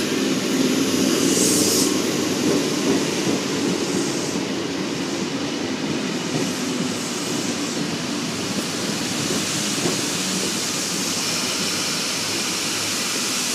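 Sydney Trains S set double-deck electric train arriving and running along the platform: a steady rumble of wheels and running gear, loudest in the first couple of seconds and easing off gradually.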